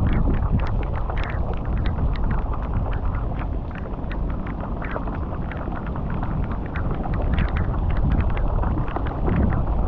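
Water rushing and splashing through a culvert, a steady low rush with many small splashes, and wind buffeting the microphone.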